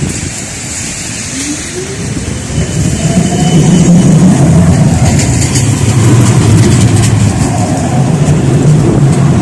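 A motor vehicle pulling away close by: a whine rising in pitch about a second in, then a loud, steady low engine rumble.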